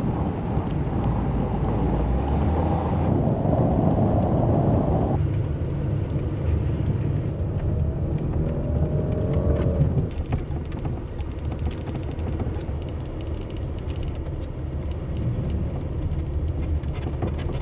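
Road and engine noise inside a moving SUV: a steady low rumble of tyres and motor as it drives along a snowy road, changing character twice as the road or speed changes.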